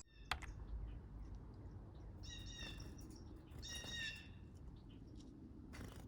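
Two short bursts of high, chattering animal calls, each a quick run of notes, about a second and a half apart, over a low steady background; a single sharp click just after the start.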